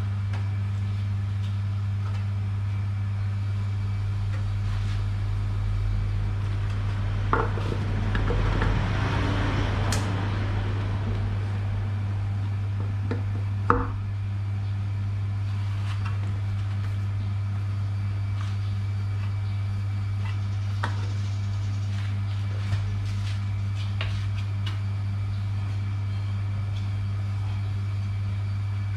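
Hatari electric fan's motor switched on and running with a steady low electrical hum, with a few sharp knocks about 7 and 14 seconds in.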